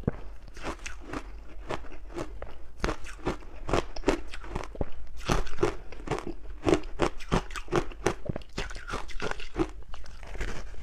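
Close-up chewing of crunchy ice with matcha powder: rapid, irregular crunches several times a second as the ice cracks between the teeth.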